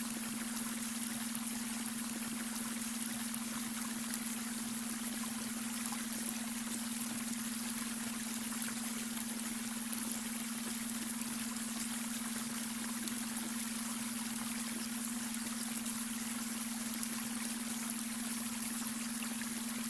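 Babbling brook, water running and trickling steadily, with a steady low tone underneath: the beta brainwave tone layered into the soundscape.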